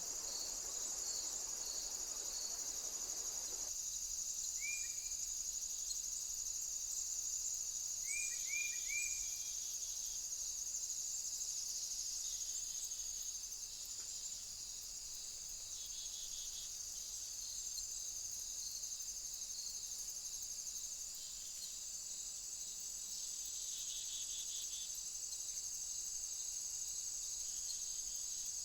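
A steady, high-pitched insect chorus, crickets or similar, with a handful of short bird chirps: one about five seconds in, a quick run of three a few seconds later, and one more near the end.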